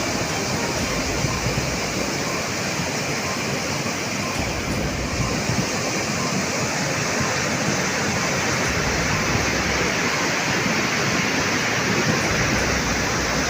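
Floodwater rushing in a steady, loud torrent: a stream in flash flood after a cloudburst.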